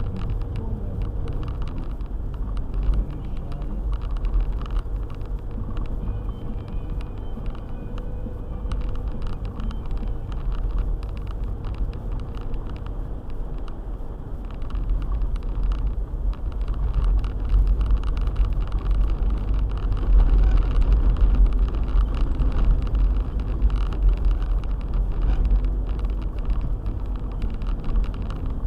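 Car driving on a snowy road: a steady low rumble of engine and tyres with many small knocks, growing louder through the second half.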